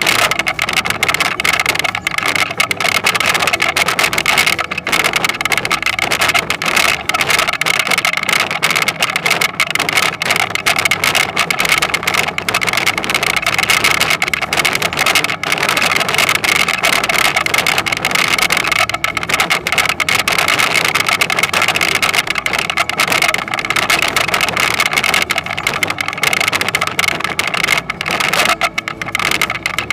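Toyonoki potato harvesting machine running steadily, its engine note constant under a continuous dense rattle of working parts.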